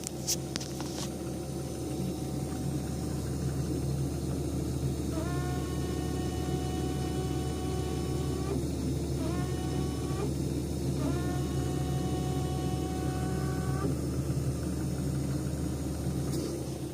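Beko Nex 9506 refrigerator running with a steady low hum that swells about two seconds in. Three times a pitched whistling tone slides up briefly, then holds for one to three seconds. These are the abnormal running noises that persisted after hose-length adjustment, a solenoid silencer and a fan replacement, which the owner counts as a defect.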